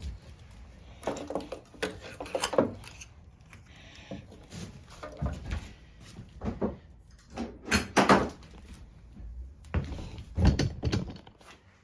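Irregular knocks, clicks and rattles of hard parts and tools being handled, a few sharp strikes among them, with no engine running.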